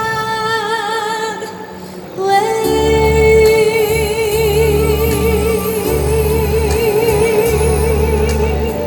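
A woman singing a Mandarin pop song over a backing track. She holds one note that fades out about a second and a half in, then after a short dip starts a long note sung with strong vibrato, while a pulsing bass beat comes in under it.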